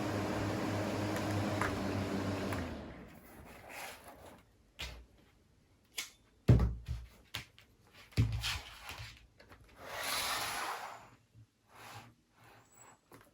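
Mini USB fan running with a steady motor hum and rush of air that dies away about two and a half seconds in. Then come several handling knocks and rubs, the loudest about six and a half seconds in.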